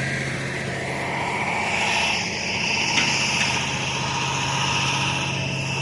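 Engine running steadily at a concrete pour, a low hum with a high hiss that grows stronger about two seconds in.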